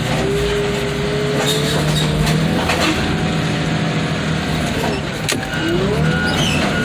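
Heavy equipment's diesel engine running under load with a hydraulic whine that holds steady, then dips and swings up and down in pitch near the end, while the van's metal body gives scattered sharp cracks and creaks as it is crushed.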